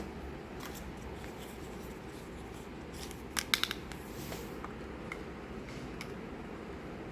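Small clicks and taps of miniature toy pieces and packaging being handled, with a quick run of sharp clicks about three and a half seconds in, over a steady low hum.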